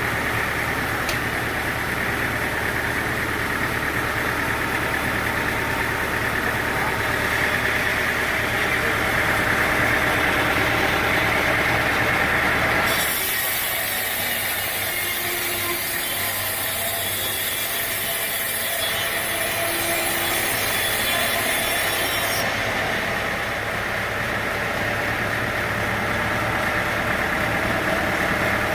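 Sawmill machinery running steadily with a low engine hum. About halfway through, the sound switches abruptly to a bright hiss with the hum mostly gone, then switches back about nine seconds later.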